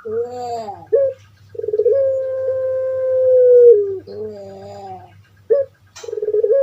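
Puter pelung dove (Streptopelia risoria) cooing: short bending notes, then a long drawn-out coo held steady for about two seconds that drops at its end, then more short notes and another long coo starting near the end.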